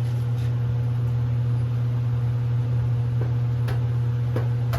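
Steady low machine hum with no change, and a few faint clicks or taps in the second half.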